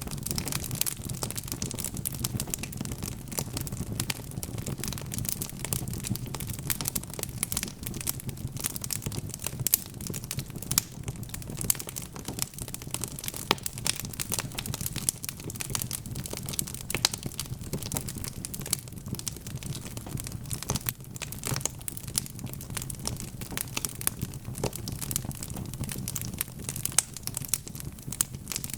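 Wood fire crackling: a dense, irregular run of sharp pops and snaps over a steady low rumble of burning.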